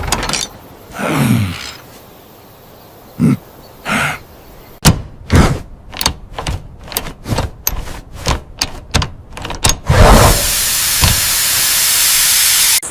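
Tractor repair sound effects: a sweep falling in pitch, two single knocks, then a rapid series of sharp clanks about three a second for some five seconds, followed by a steady hiss of about three seconds that cuts off abruptly.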